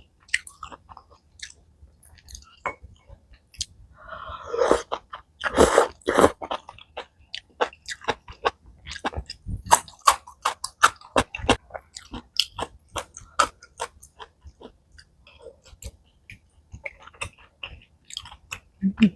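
Close mouth sounds of someone eating malatang: chewing, biting and wet smacks, with a louder, longer stretch of eating noise about four to six seconds in.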